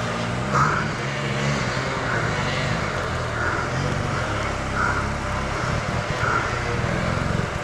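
Enduro dirt bike engine running under way, its pitch rising and falling with the throttle.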